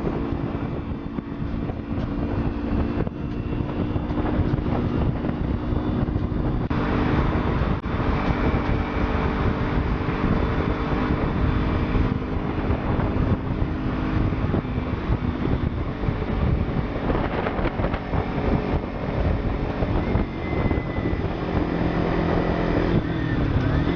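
Motorcycle riding at a steady speed, its engine running under heavy wind rush on the microphone; near the end the engine note drops as the bike slows.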